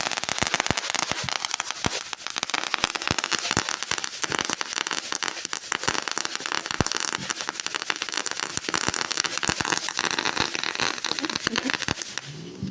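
Consumer ground firework going off: a steady fizzing hiss thick with rapid crackling pops, which stops about twelve seconds in.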